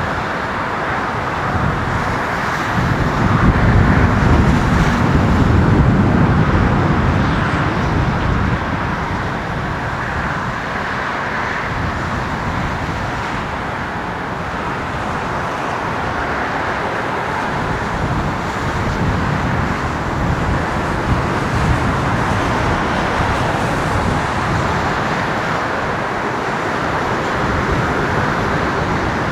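Steady roar of an Airbus A330-300 jet airliner's engines, with a deeper rumble swelling a few seconds in and then easing to an even roar.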